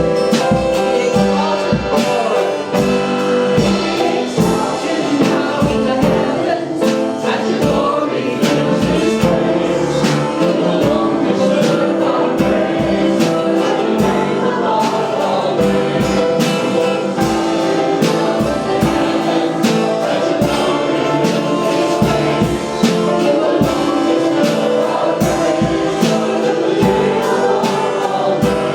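Live gospel worship music: voices singing over a band, with a steady drum beat.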